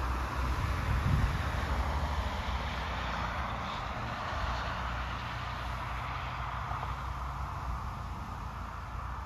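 Car engines running around a race circuit, heard from a distance as a steady drone with a low rumble, a little louder about a second in and easing off slowly after.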